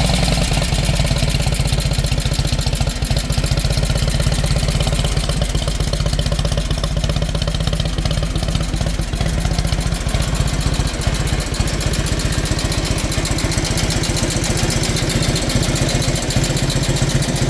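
1947 Indian Chief's side-valve V-twin engine idling steadily, a dense run of regular firing pulses at an even level.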